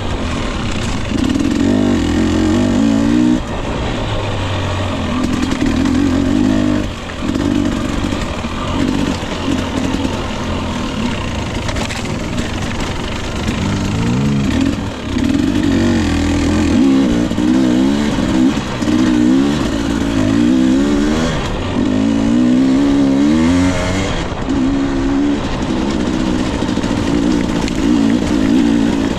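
Husqvarna TE 250i two-stroke dirt bike engine revving up and down while riding, its pitch rising and falling over and over with short drops as the throttle is rolled off.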